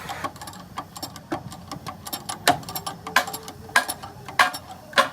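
Metal tapping and knocking from hand-tool work: light clicks, then sharper strikes about every 0.6 s from about halfway through.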